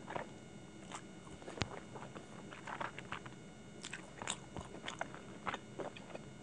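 Close-miked chewing of a mouthful of Hakka noodles: irregular wet mouth clicks and smacks, with one sharper click about one and a half seconds in.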